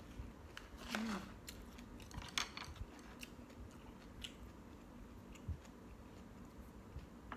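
A person eating close to the microphone, chewing and crunching a mouthful of kimchi, with a few louder crisp crunches about one, two and a half and four seconds in.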